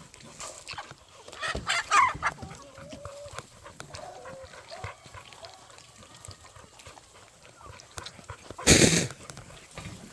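Chickens clucking and calling in short bursts. A single loud, sudden sound cuts in about nine seconds in.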